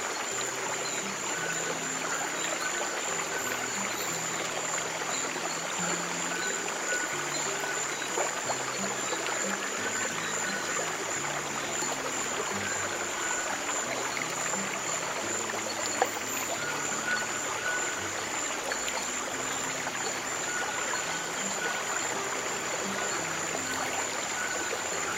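Running water from a stream trickling steadily, with soft, slow piano chords underneath. A single faint click sounds about two-thirds of the way through.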